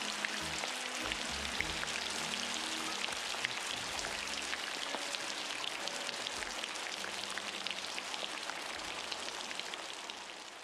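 Steady heavy rain hissing, with many individual drops pattering and clicking on a hard surface. Low sustained notes sound under it in the first half and die away about halfway through. The rain fades out near the end.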